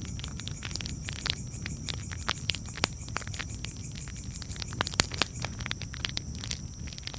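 Wood fire crackling: frequent irregular pops and snaps, the sharpest about five seconds in, over a low steady rumble of the flames.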